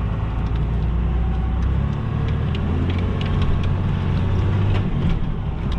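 Pickup truck engine running under load while crawling over rough off-road ground. The engine note steps up about two seconds in and eases off near the end, with scattered knocks and rattles from the body.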